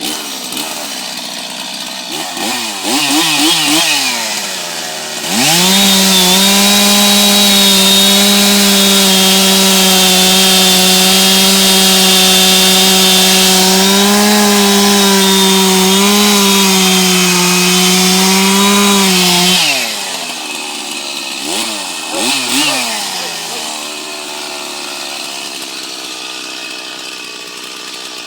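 Two-stroke chainsaw idling with a few quick blips of the throttle, then held at full throttle at a steady high pitch for about fourteen seconds before dropping back to idle, with two more short revs near the end.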